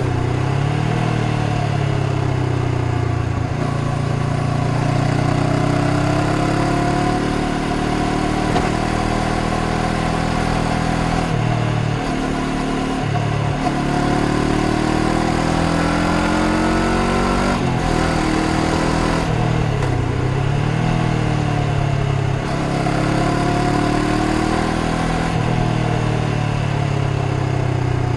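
Honda CBR500R's 471 cc parallel-twin engine running under way, its revs rising and falling several times as the throttle is opened and closed, dipping deepest about twelve seconds in and again near twenty seconds.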